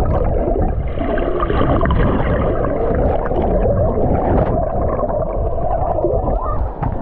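Muffled rumbling and gurgling of water heard through a camera microphone held under water in a pool, with the higher sounds cut off.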